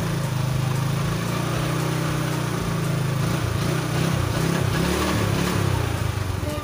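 Yamaha Mio Sporty scooter's single-cylinder four-stroke engine held at raised revs to check the charging voltage. Its pitch is steady at first, then wavers up and down from about three seconds in, and it falls off right at the end.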